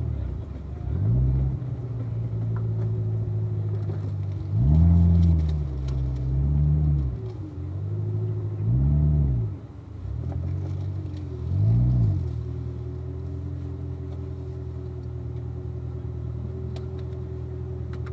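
2016 Corvette Z06's supercharged V8 engine at low speed, with five or six short bursts of throttle where the engine note rises and falls, then running steadily for the last several seconds.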